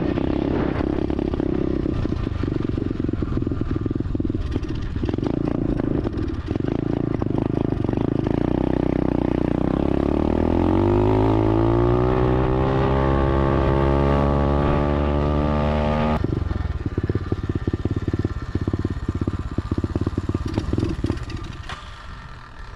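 SSR 125 automatic dirt bike's single-cylinder four-stroke engine on a test ride: the engine note climbs steadily for about six seconds as the bike accelerates, then drops off suddenly as the throttle closes. It settles back to a low, choppy running that fades near the end.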